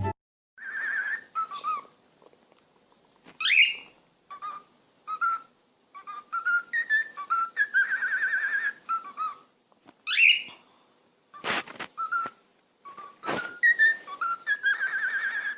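Parrot whistling a series of warbling notes broken by short pauses, with two quick upward-sweeping whistles, and two short sharp sounds near the end.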